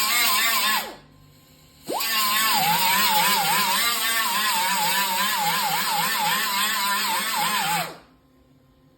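Electric angle grinder grinding old paint and rust off a car's steel quarter panel, its whine wavering in pitch as it bites the metal. It runs down about a second in, spins up again a second later, and stops near the end.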